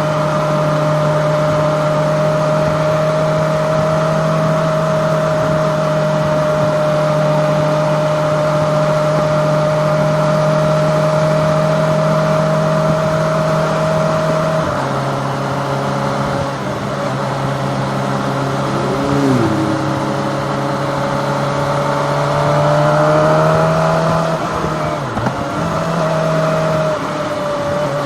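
Kawasaki ZX-25R's 250cc inline-four engine running at a steady cruise. About halfway through its note drops to a lower steady pitch, and short rising and falling tones come and go in the second half.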